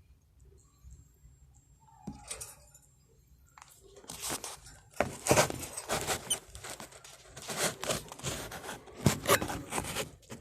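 Near quiet at first, then from about four seconds in a run of irregular rustling, scraping and crackling handling noises.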